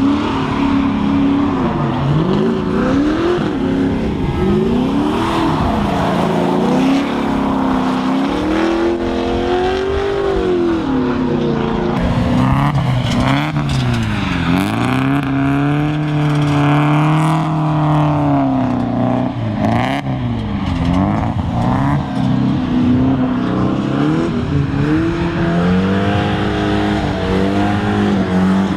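Drift cars' engines revving hard and dropping off again and again as they slide around a wet track, the pitch swinging up and down every second or two over steady tyre and track noise.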